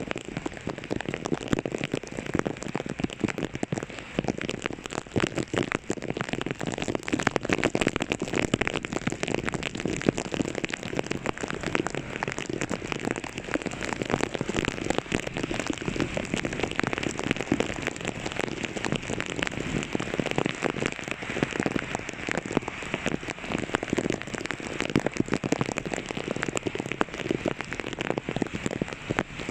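Heavy rain falling steadily, a dense, unbroken hiss of drops hitting a surface.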